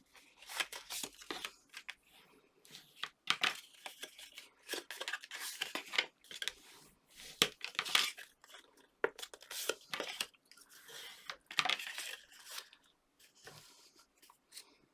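Stiff card being handled and folded along its score lines: irregular rustling and creasing, with sharp crackles now and then.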